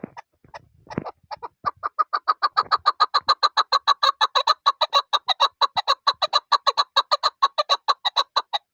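Chukar partridge calling: a rapid run of short clucking notes that starts slowly, quickens to about seven notes a second and holds that pace, then stops abruptly near the end.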